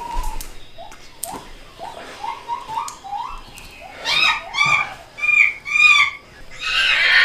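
Jungle animal sound effects, mostly bird calls: a run of short rising chirps, then four loud pitched calls about half a second apart, ending in a harsh screech.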